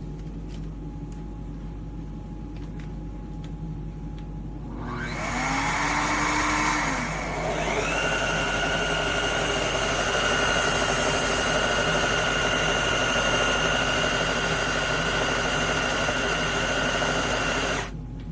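Shark HydroVac wet-dry vacuum mop's motor starting up about five seconds in with a rising whine. It dips briefly, runs with a steady high whine, then cuts off suddenly near the end.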